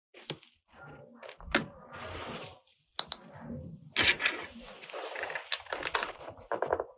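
Hard plastic toy kitchen parts and packaging being handled, with sharp clicks and knocks between stretches of rustling.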